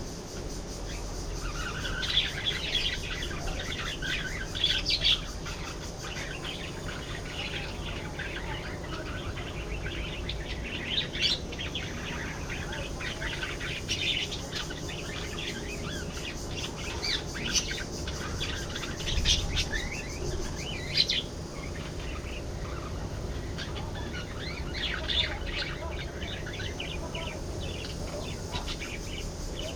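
A flock of budgerigars chirping and warbling, many short overlapping calls with no pause.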